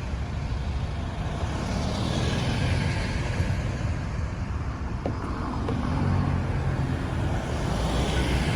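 Road traffic: steady engine rumble and tyre noise from motor vehicles, with passing vehicles swelling about two to three seconds in and again near the end. A short tick sounds about five seconds in.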